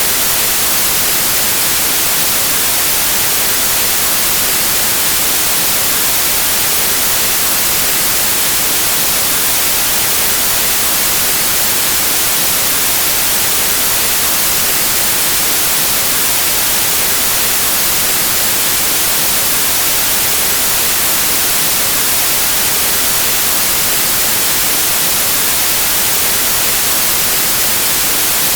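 Steady white noise: an even static hiss, unchanging throughout.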